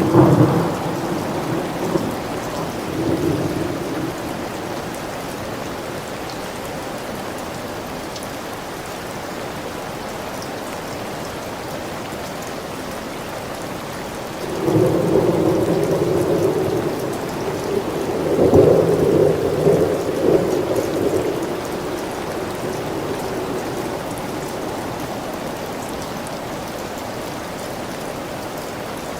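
Steady rain with rolling thunder. A peal at the start fades over a few seconds; about halfway in a second, longer rumble builds, is loudest about two-thirds of the way through, then dies away under the rain.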